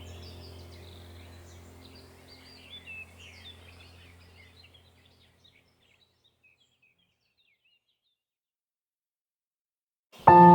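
Small birds calling with many short, high chirps over a low steady hum, both fading out over the first five seconds or so, then silence. Near the end, ambient music with ringing, bowl-like tones starts abruptly.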